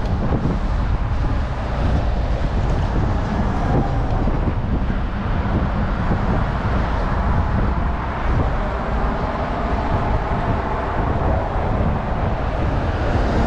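Wind buffeting the microphone while riding a bike, over steady road and tyre noise.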